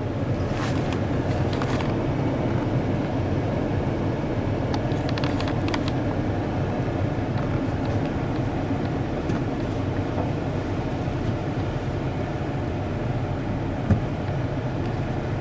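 Car-wash attendant's hand-held spray hose blasting water onto the truck, heard from inside the cab as a steady spray noise, with a few sharper splashes near the start and about five seconds in.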